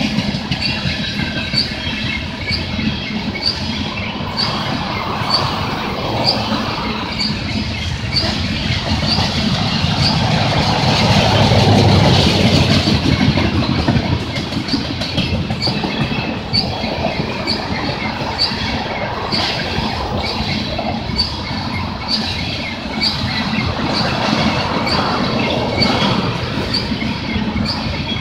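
A BNSF coal train's cars rolling past: steel wheels rumbling steadily on the rails with a regular click about once a second, swelling louder around the middle.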